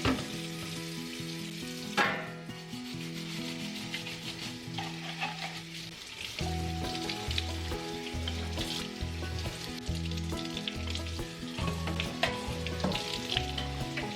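Food sizzling and crackling in a frying pan while being stirred, under soft background music with a steady, stepping bass line. A sharp knock about two seconds in.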